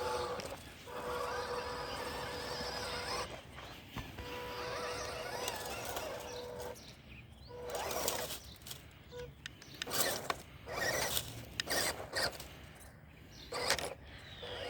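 Small electric motor and gearbox of an MN168 RC crawler whining steadily in two runs with a short pause between. Over the second half come irregular short crunches and rustles.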